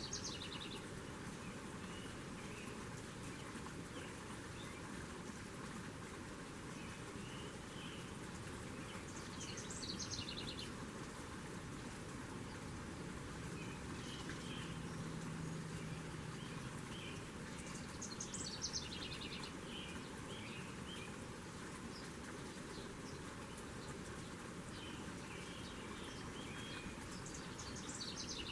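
A songbird singing a short, rapid, stuttering high phrase about every nine seconds, with softer chirps in between, over a steady hiss of outdoor background noise.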